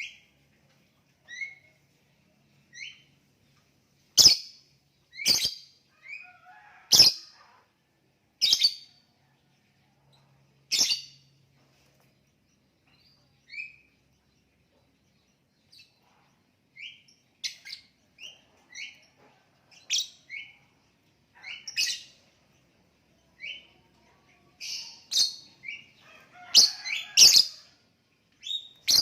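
Lovebird giving short, sharp, high chirps at irregular intervals, mostly a second or more apart, coming quicker in a cluster near the end.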